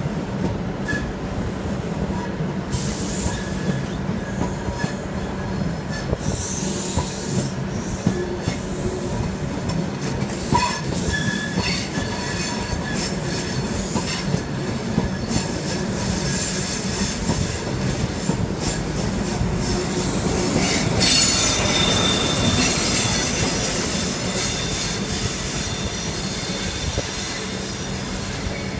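InterCity 125 (HST) train departing, its Mark 3 coaches rolling past with wheel clicks over the rail joints and a steady low hum. The sound swells about 21 seconds in as the rear Class 43 diesel power car goes by, then eases as it pulls away.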